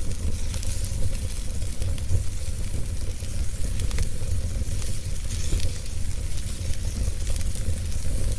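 Wood fire crackling in a fireplace: a steady low rumble and hiss with scattered sharp pops and snaps.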